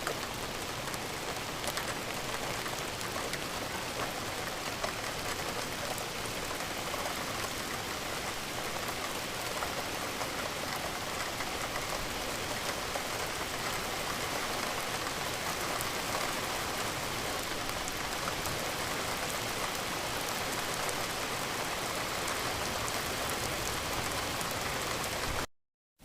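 Steady rain falling, a dense even hiss of many small drop hits. It cuts out abruptly for a moment near the end.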